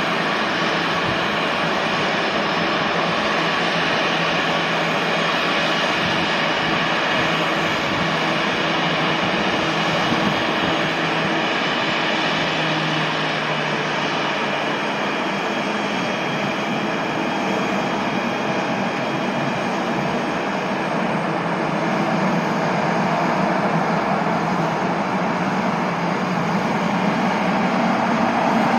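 Jet airliner engines running: a steady, loud rushing noise with faint whining tones, growing a little louder near the end.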